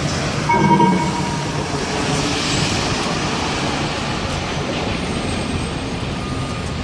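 City street traffic running steadily, with a short, loud pitched blast about half a second in.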